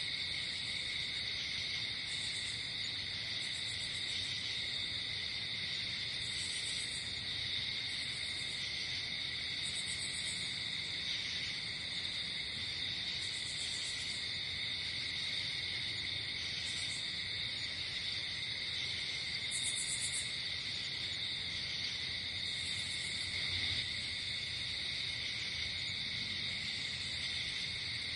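Night insect chorus: crickets trilling steadily, with a higher-pitched insect sounding in short bursts every couple of seconds.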